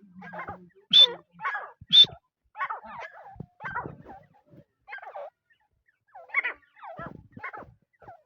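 Francolin (teetar) calling: a run of short harsh notes, the two loudest about one and two seconds in, followed by a string of weaker notes.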